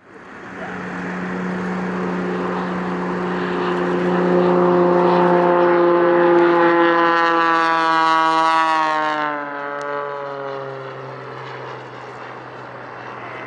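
An aircraft flying past. Its engine sound grows louder up to a peak about six seconds in, then fades, and its pitch slides steadily lower as it goes by.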